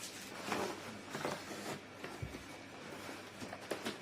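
Faint rustling and handling of a ring light's packaging during unboxing, with scattered small clicks and a soft low thump about two seconds in.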